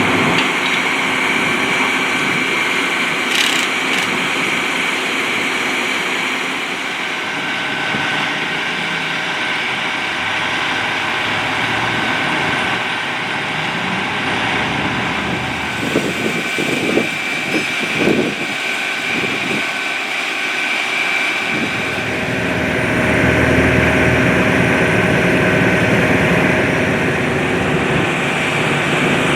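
Vehicle engines idling steadily at an emergency scene, a hum with fixed whining tones. A few short sounds come in the middle, and the engine sound grows louder and deeper about three quarters of the way through.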